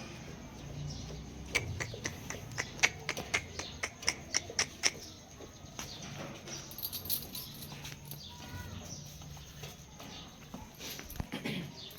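Donkey hooves clopping: a quick run of sharp steps, about four a second, from about a second and a half in to about five seconds in, then fainter scattered ticks.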